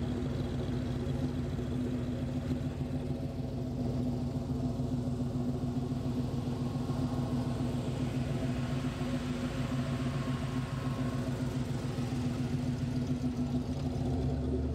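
Hot rod engine idling steadily at one even pitch, with no revving.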